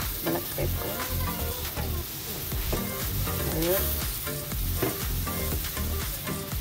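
Chicken and carrot strips bubbling in cooking liquid in a wok, sizzling steadily while a metal spatula stirs and scrapes the pan.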